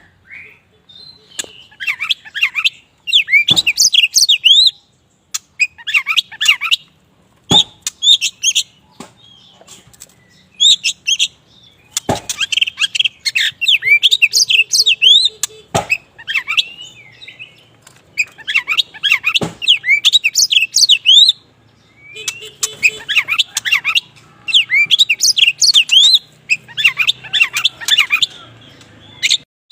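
Kacer wulung (black oriental magpie-robin) singing in full voice: repeated bursts of rapid, varied whistles and chirps separated by short pauses, with a few sharp clicks between phrases.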